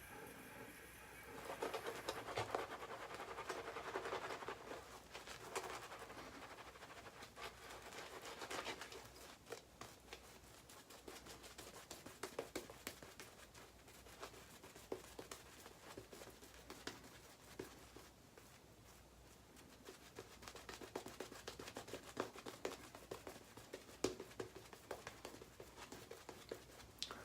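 Shaving brush working a creamy shaving lather: faint scratching of the bristles with scattered soft clicks, busiest over the first several seconds and then sparser.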